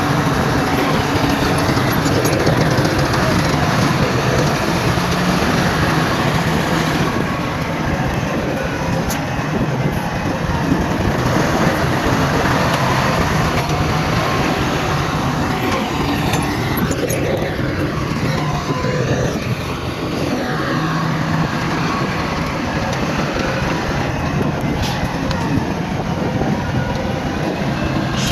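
Heavy diesel earthmoving machinery, a bulldozer and dump trucks, running steadily with engine noise throughout.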